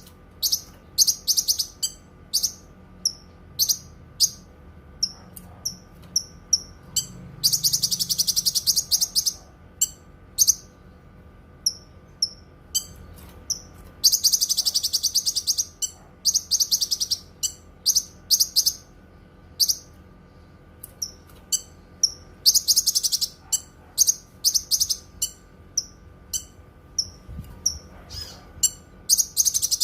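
Cucak kinoi singing: a string of short, high chirps, broken three times by a rapid, buzzy trill lasting one to two seconds.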